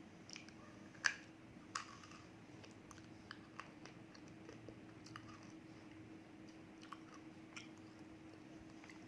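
Roasted edible clay being bitten and chewed close to the microphone. Two sharp crunches come in the first two seconds, then scattered smaller crackles, over a faint steady hum.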